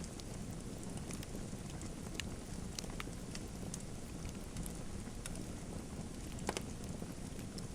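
Wood fire crackling in a fireplace: a steady low rush of flame with scattered sharp pops and snaps, one louder pop about six and a half seconds in.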